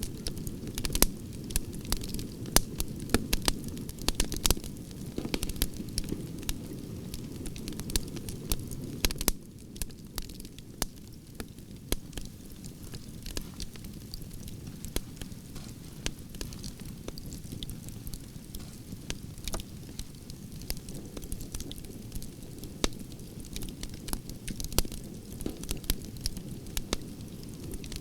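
Branches burning in an open wood fire, crackling with many sharp pops over a steady low rumble of flame. The pops are densest and loudest for about the first nine seconds, then come more sparsely.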